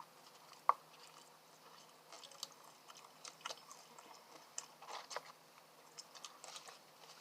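Close-miked chewing of fast food: soft, scattered mouth clicks and smacks while eating, with one sharper click a little under a second in.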